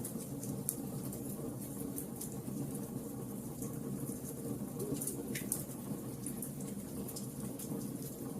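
Bonfire crackling: frequent small sharp pops and snaps over a steady low sound of burning.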